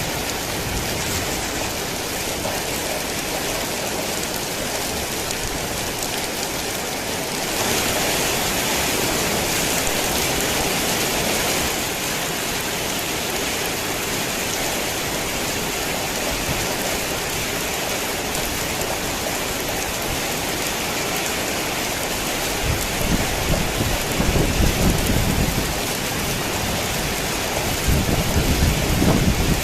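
Heavy rain falling steadily, heavier for a few seconds about a quarter of the way in. Two low rolls of thunder come near the end.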